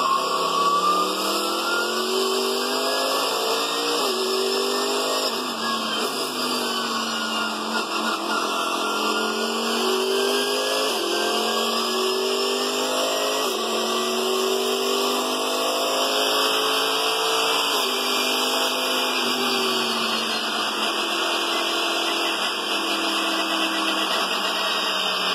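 Racing car engine revving up through the gears, its pitch climbing and dropping back at each shift, over and over.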